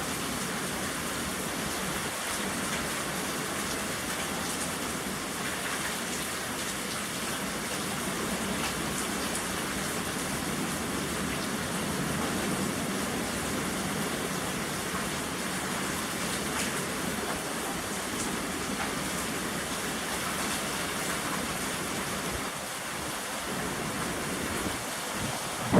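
Steady rain falling, an even hiss with scattered drop ticks, swelling slightly about halfway through.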